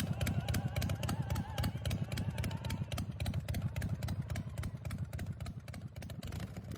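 2005 California Motorcycle Company Devastator pro street chopper's 113 ci V-twin engine running, with a steady pulsing exhaust beat that grows quieter near the end.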